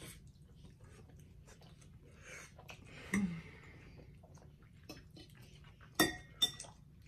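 Close-up wet chewing, slurping and smacking of creamy chicken Alfredo pasta, with many small mouth clicks. About six seconds in, a fork clinks sharply twice against a glass dish.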